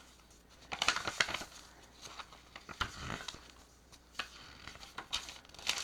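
Paper rustling and crinkling as the pages of a handmade junk journal are handled and turned: a few short scattered rustles and soft taps, the loudest cluster about a second in.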